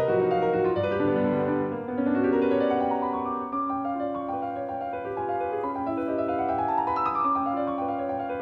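Solo piano background music, with flowing arpeggios that climb in pitch in the later part.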